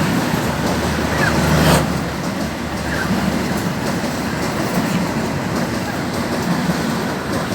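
Penataran passenger train running along the rails as it enters the station, a steady rumble of wheels and carriages with a louder rush about two seconds in.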